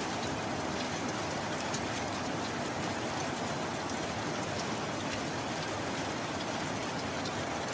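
Steady rain falling: an even hiss with individual drops ticking through it.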